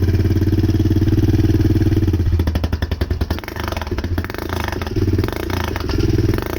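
Suzuki QuadSport ATV engine running, steady at first, then uneven from about two seconds in, its loudness rising and falling. It is running rough.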